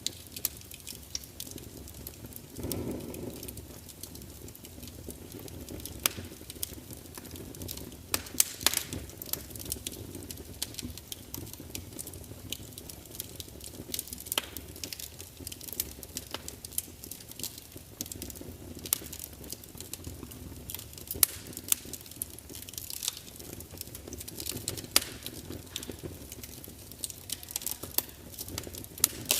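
Wood fire burning in a large open fireplace, crackling and spitting with frequent sharp pops and snaps over a low steady rumble of the flames. A brief louder surge of flame noise comes about three seconds in.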